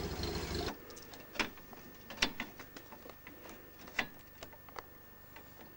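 Open sports car's engine idling for under a second, then cut off abruptly. After that, a few scattered sharp clicks and light taps.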